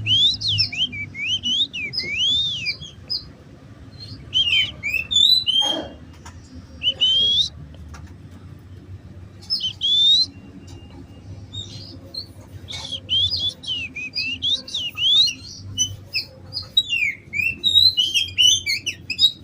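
A caged songbird singing in phrases of quick, arching chirps and whistles, separated by pauses of a few seconds; the song is busiest through the second half.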